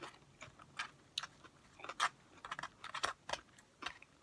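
A person chewing crunchy food close to the microphone: irregular crisp crunches and mouth clicks.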